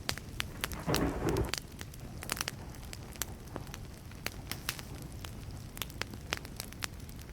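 Wood campfire burning and crackling, with sharp pops scattered throughout over a steady hiss, and a brief louder rush about a second in.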